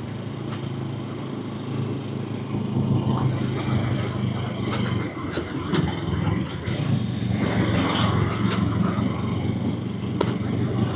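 Small sport motorcycle engine running at a steady cruise, with wind rushing over the microphone. The engine note breaks briefly about five seconds in, then carries on.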